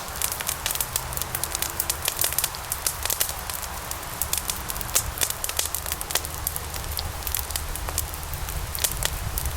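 Log fire in a fireplace crackling: dense, irregular sharp pops and snaps over a steady low rumble of the burning fire.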